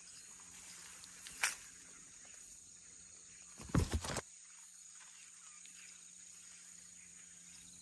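A steady high insect drone in the background, a single sharp tick about a second and a half in, and a short cluster of dull thumps and rustles near the middle, the kind made by stepping or pushing through wet, weedy ground.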